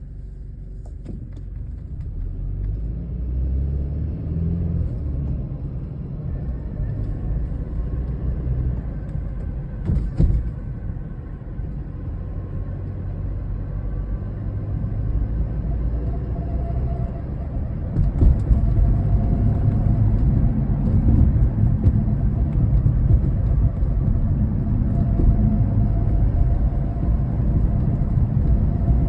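BMW 4 Series driving, with steady low road and drive rumble. About halfway through, an unexplained steady whirring tone joins the rumble and keeps going; the overall noise rises a little soon after.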